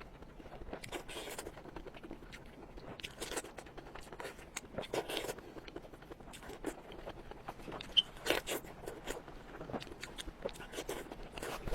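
Close-miked eating: irregular bites, crunches and wet chewing clicks of someone eating spicy food, with a sharp loud click about eight seconds in.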